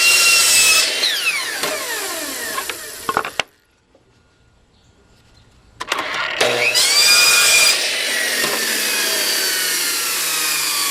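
Electric miter saw making two cuts in 3/4-inch pine. Each time the motor runs and the blade goes through the board, then the motor winds down with a falling whine. The first run stops a few seconds in; after a short pause the saw spins up again and winds down slowly to the end.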